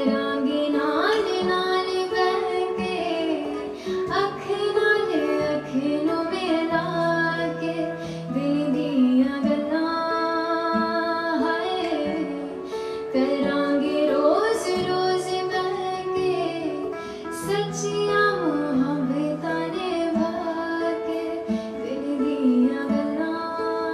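A woman singing a melody with sliding, ornamented notes, accompanied by guitar.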